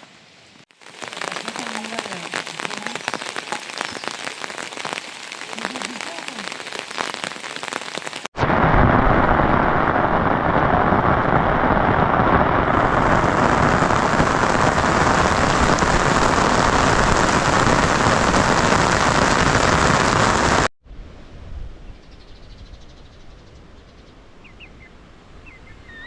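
Rain falling steadily, moderate at first, then a much louder, heavier downpour from about 8 s in that cuts off sharply at about 21 s, leaving a quieter hiss.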